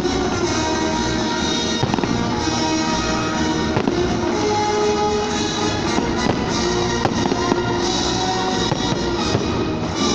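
Fireworks display: scattered bangs of bursting shells, about one every couple of seconds, over music that plays throughout.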